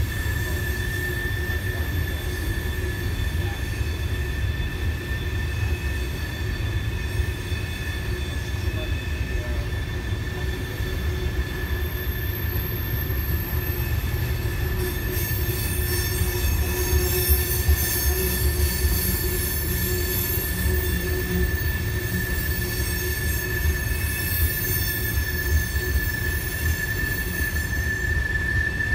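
Train rolling past with a steady, high-pitched squeal of steel wheels against the rail over a low rumble. This is the squeal of wheels taking a curve.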